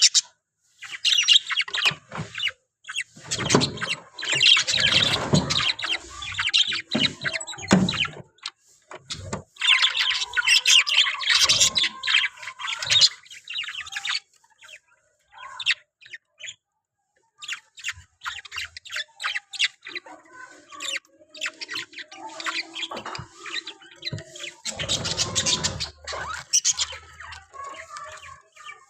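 Pet Australian parrot chirping and chattering in quick, busy bursts, with a pause of a few seconds around the middle.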